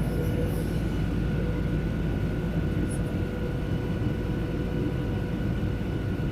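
Steady cabin drone inside a Boeing 737 in flight: engine noise and airflow over a low rumble, with steady whining tones that do not change.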